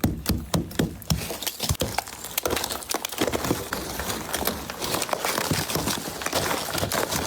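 Ice crunching and cracking: a dense, irregular run of sharp clicks and knocks.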